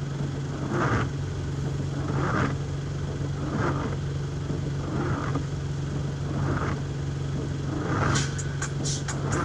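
Inside a moving car in rain: windshield wipers swishing about every second and a half over the steady hum of the engine, with a few sharp ticks near the end.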